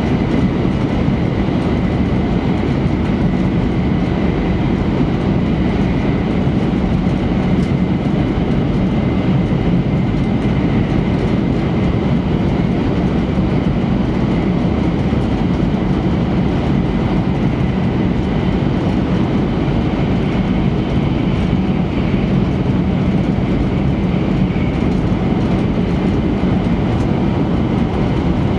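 Running noise inside the cabin of an E3 series Shinkansen travelling at speed: a steady, deep rumble with a faint high tone above it.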